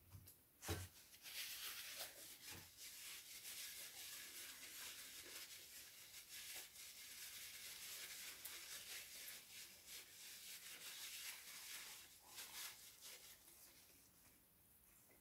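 Close-up crunching and chewing of a fried samosa's crisp pastry, a continuous crackly noise that starts about a second in and dies away near the end. A single dull thump comes just before it.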